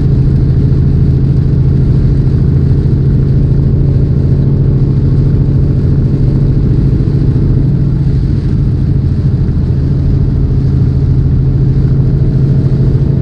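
Tractor-trailer's diesel engine droning steadily inside the cab while driving, a loud, even low hum.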